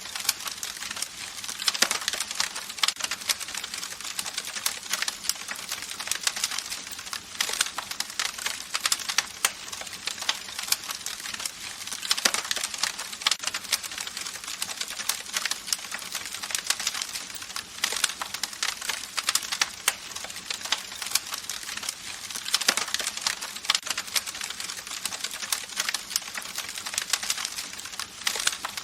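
Campfire crackling: a dense run of irregular pops and snaps from burning wood over a steady hiss, with a few louder cracks now and then.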